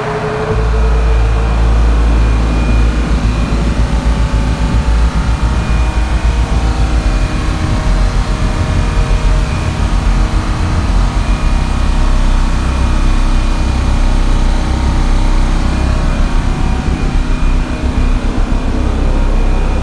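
Twin two-stroke Detroit Diesel engines of a large standby generator, each with a supercharger and a turbo, running steadily with a heavy low rumble. The rumble steps up about half a second in, then holds even.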